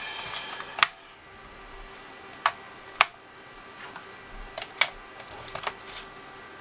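A handful of sharp, irregular plastic clicks and taps from handling the reassembled TI-84 Plus calculator, about six in all.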